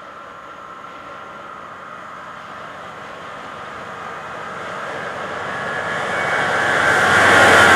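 Freight train hauled by a diesel locomotive approaching, its rumble growing steadily louder and loudest near the end.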